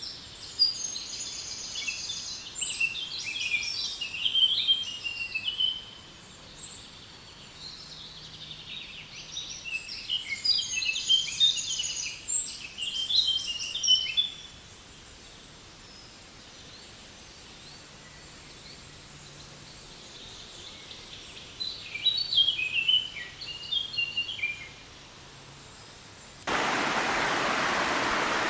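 A songbird sings three long twittering bouts of quick high chirps over a faint steady background. Near the end the sound cuts suddenly to the loud, steady rush of a small waterfall.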